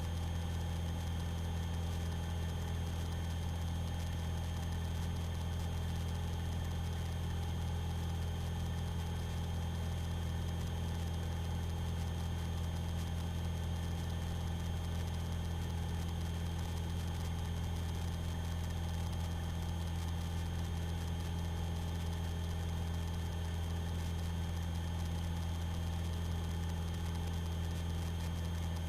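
Piston engine of a light aerobatic aircraft running steadily in flight, heard from inside the cockpit as an even, unchanging drone.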